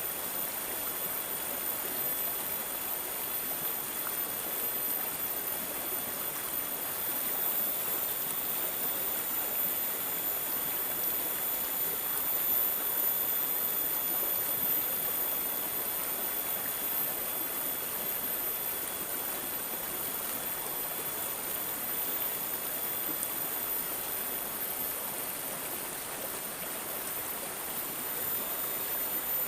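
Water babbling and gurgling steadily, like a small stream flowing over stones.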